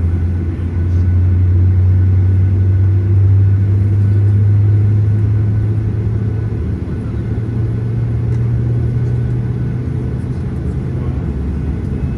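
Boeing 737-800's CFM56-7B engines heard from inside the cabin as a steady low drone and rumble, its pitch creeping slowly upward.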